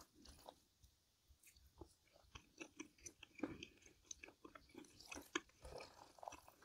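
Faint close-up chewing of a mouthful of bibim naengmyeon (cold buckwheat noodles with seasoned pollack topping), with small wet crunching clicks that start about two seconds in.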